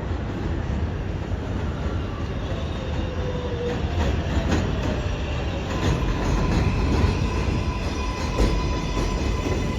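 NYC Subway R188 train on the 7 line running through the station: a loud, steady rumble of wheels on rail with a few sharp clicks. Thin, steady high tones from wheel squeal come in about halfway through.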